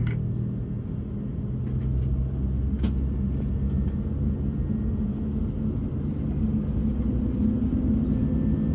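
Steady low rumble and hum inside the cabin of an Airbus A220-300 during pushback, with a faint click about three seconds in and a slightly higher hum joining about seven seconds in.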